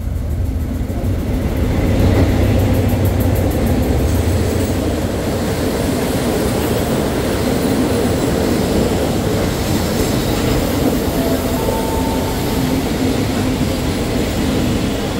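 State Railway of Thailand passenger train rolling past: a deep low rumble, loudest in the first few seconds as the front of the train goes by, then the steady rumble of the passenger coaches' wheels on the rails. A brief high wheel squeal comes a little before twelve seconds.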